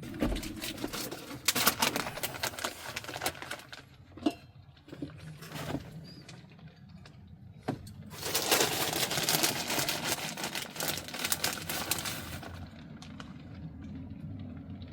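Turkey burger and broccoli crackling and being scraped in a frying pan, in two spells of a few seconds each, over a steady low hum.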